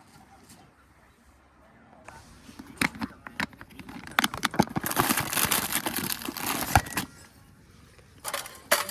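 Handling noises: scattered sharp clicks and knocks, then a few seconds of dense crinkling rustle, like material or bags being handled, and a few more clicks near the end.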